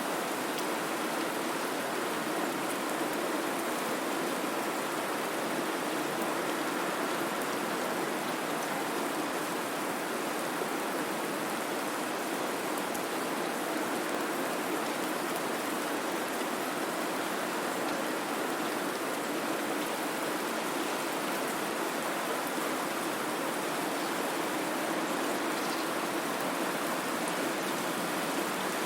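Steady white-noise hiss, even and unchanging, spread evenly over the range with little bass, rain-like in character.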